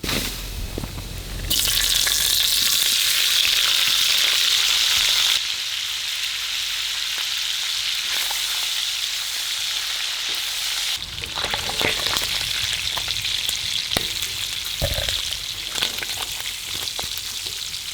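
Sausage frying in a pan, sizzling steadily in hot grease. The sizzle is loudest for a few seconds near the start, then settles lower, with a few light utensil clicks later on.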